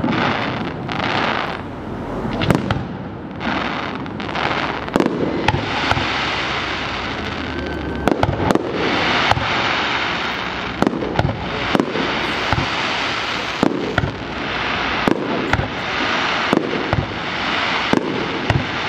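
Aerial firework shells bursting in a fireworks display: a string of sharp bangs at irregular intervals, several close together in places, over a continuous hiss between them.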